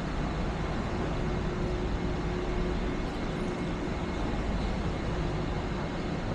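Steady rumble and hiss of vehicle or traffic noise, with no distinct events.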